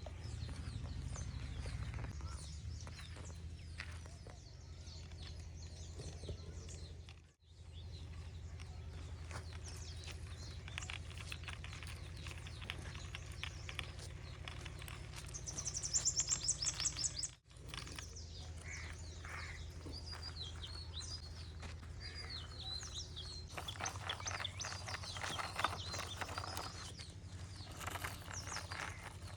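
Birds chirping and calling over a steady low hum, with a loud rapid run of high chirps about sixteen seconds in; the sound cuts out briefly twice.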